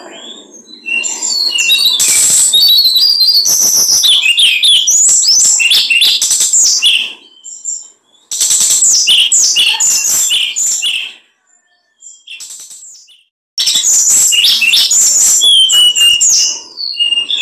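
Small songbird singing loudly in fast, varied, twittering phrases. It sings in three long bursts, broken by short pauses about eight and twelve seconds in.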